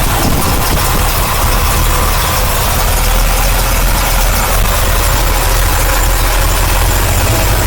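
Chevrolet 327 V8 with an Edelbrock four-barrel carburetor idling steadily.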